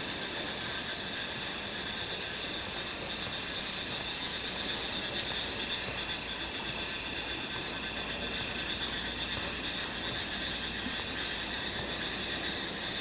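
Chorus of insects trilling steadily at several high pitches, over a low, even background rumble.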